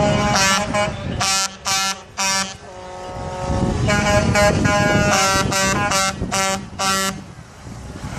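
Truck air horns sounding as trucks pass: runs of quick short blasts with a longer held note between them, over the rumble of the engines.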